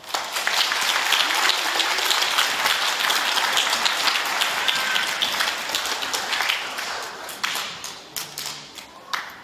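Audience applauding, starting suddenly and then thinning out to a few scattered claps over the last couple of seconds.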